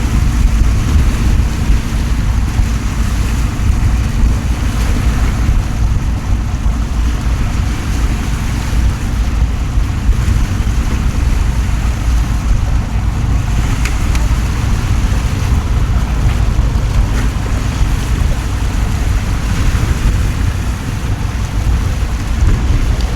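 Torrential rain pouring down in a steady loud hiss, with wind rumbling across the microphone.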